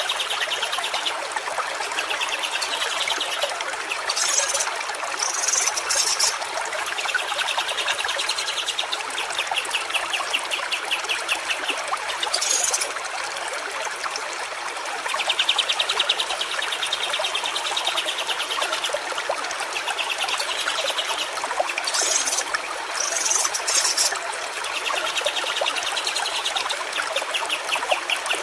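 Stream water trickling and running steadily, with short bird chirps and rapid buzzy trills coming back every few seconds.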